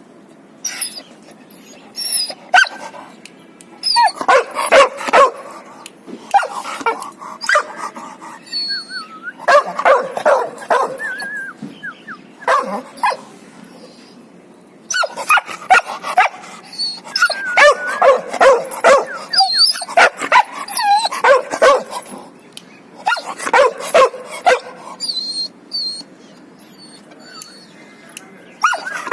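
Dogs barking in bouts of quick, repeated barks with short pauses between them.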